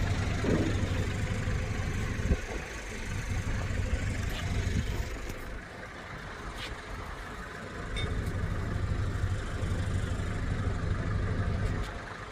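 A boat's engines running at a steady low drone, with a broad rushing noise over them; the sound eases a little in the middle. A single sharp knock about two seconds in.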